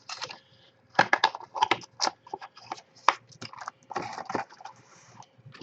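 Trading cards and their packs being handled on a table: irregular clicks, taps and short rustles as packs are opened and cards are shuffled through, with a longer rustle about four seconds in.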